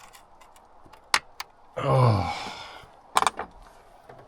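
Metal hand tools clinking as they are handled, with two sharp clinks about a second in and a quick run of clinks a little after three seconds. A short vocal sound with falling pitch, like a sigh, comes in between.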